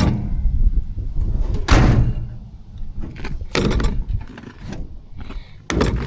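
Irregular knocks and thuds, four or five in six seconds, as things are handled and set down, with a low rumble of handling in between.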